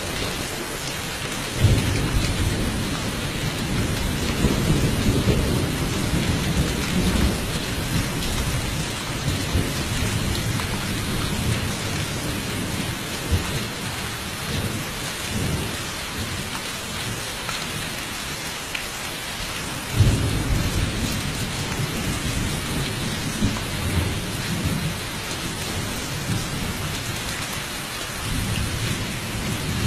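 Thunderstorm: steady rain hissing throughout, with thunder breaking about two seconds in and again about two-thirds of the way through, each clap rumbling on for several seconds.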